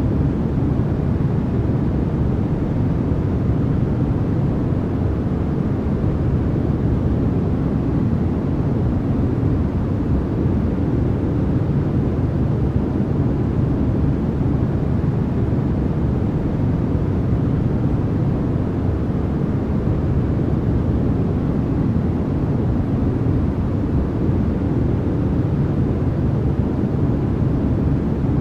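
Continuous noise played for sleep, an even, unchanging hiss with most of its weight in the low end, so it sounds deep and rumbling rather than bright.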